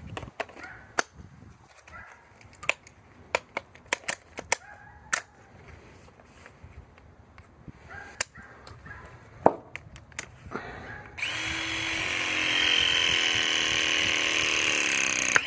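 Scattered clicks and knocks of tools and parts being handled, then a battery-powered tool's motor runs for about four seconds, its pitch sagging slightly under load, and stops.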